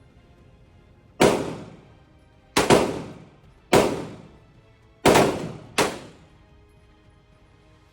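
Glock 19 9mm pistol fired in single shots, about six in all, roughly a second apart, with two coming almost together near the middle. Each shot is a sharp crack with a long echoing tail.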